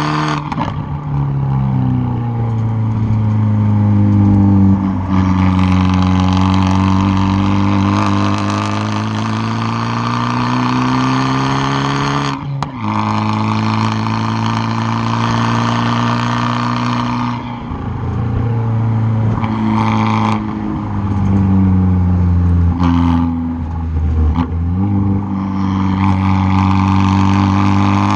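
Tuned 2013 Fiat 500 Abarth's turbocharged 1.4-litre four-cylinder heard close at its straight-piped exhaust under hard driving. The engine pitch climbs and falls with the throttle, with a few brief drops where the driver lifts or changes gear.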